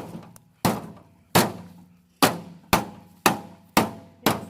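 Sledgehammer striking an old microwave's metal casing again and again, seven sharp blows with a brief metallic ring after each, coming a little faster toward the end.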